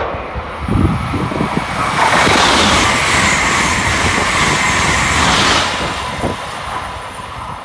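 Amtrak Acela Express high-speed trainset passing through at speed: a rushing noise of wheels on rail and air that builds quickly, is loudest for several seconds as the cars go by, then fades as the train draws away.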